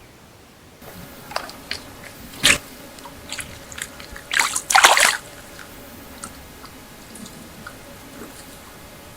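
Water splashing in short bursts, with a sharp splash about two and a half seconds in and the loudest flurry of splashing around four to five seconds in, then only a faint steady hiss.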